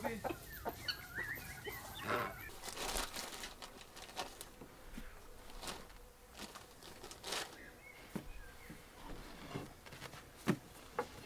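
Chickens clucking in the first second or so, with scattered sharp knocks throughout and a brief rush of noise about two to three seconds in.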